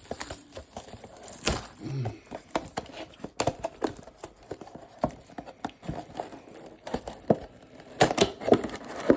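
A sealed trading-card mega box being torn open by hand: packaging crinkling and tearing, with many short clicks and knocks. The box is tough to open.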